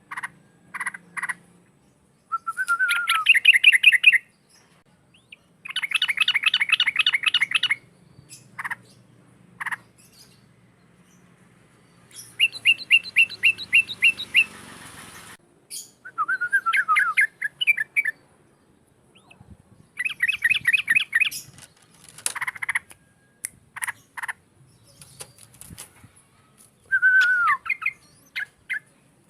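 Trucukan (yellow-vented bulbul) singing loudly and persistently: short bursts of fast, bubbling repeated notes, some phrases opening with a downward-slurred whistle, separated by brief pauses.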